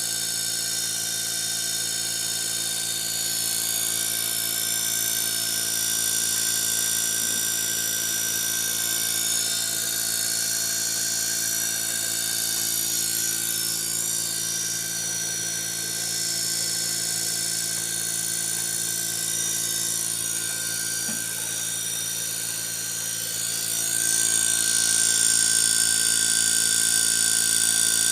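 Hitachi inverter air conditioner running steadily after its compressor fault was repaired: a machine hum with several steady whining tones over fan air noise, getting a little louder near the end.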